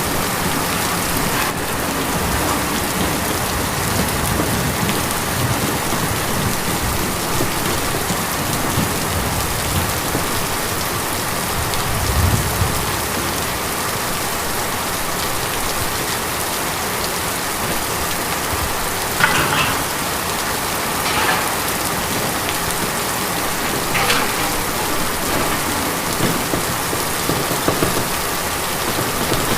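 Steady rain falling on tin, a dense, even patter, with a few louder single drops striking the metal in the second half.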